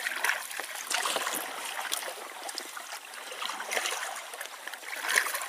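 Water splashing and trickling around a canoe as it is paddled, with many small irregular drips and plops.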